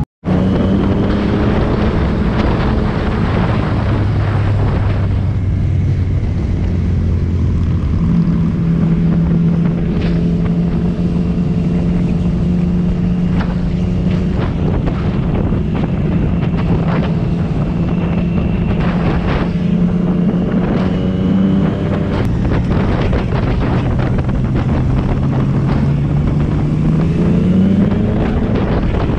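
Yamaha MT-09's three-cylinder engine running at a steady cruising speed, with wind rushing over the microphone. Its note holds for long stretches, dips slightly twice, and climbs near the end as the bike picks up speed.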